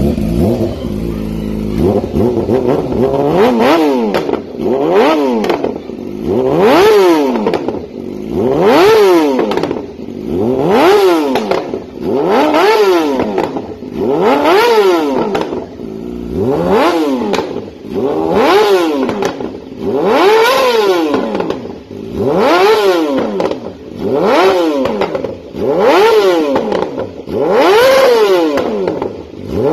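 Yamaha YZF-R6 inline-four sport bike running through a full titanium exhaust with an Akrapovic slip-on: a brief steady idle, then revved repeatedly with the throttle blipped about every two seconds, each rev rising sharply and falling back.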